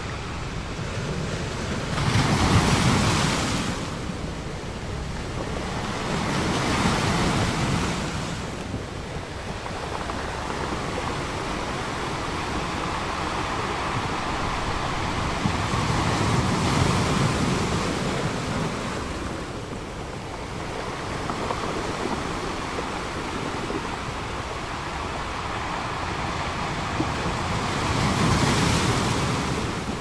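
Ocean surf: waves breaking and washing up a shore, the roar swelling and ebbing in slow surges every several seconds, loudest about three seconds in.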